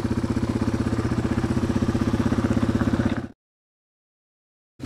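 Dirt bike engine running at a steady idle with an even, rapid pulse. About three seconds in the sound cuts off abruptly to dead silence, then returns near the end.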